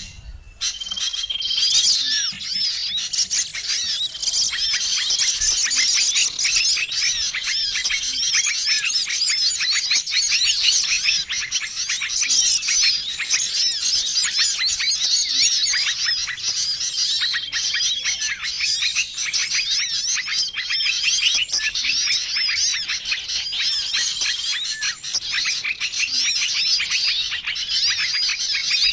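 Bird-lure recording of many small songbirds calling at once: a dense, continuous twittering and chirping, with a short level whistled note repeating every few seconds.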